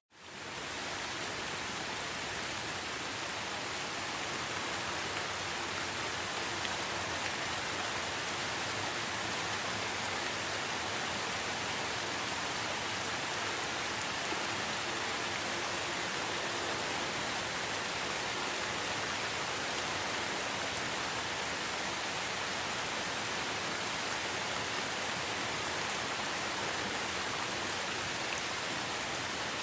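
Steady rain falling, a dense even hiss of many drops. The sound cuts out for a moment at the very start and fades back in.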